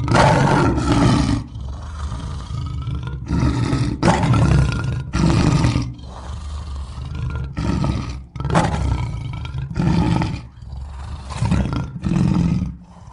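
A large animal roaring: a series of loud, deep roars, about eight in all, with quieter rumbling between them.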